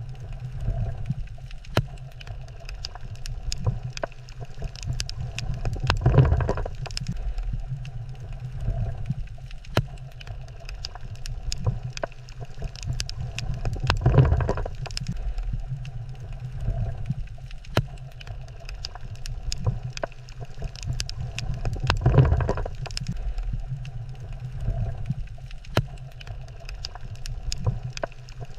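Underwater coral reef ambience: a steady low rumble with scattered sharp clicks and crackles, and a louder whooshing surge of water about every eight seconds, three times.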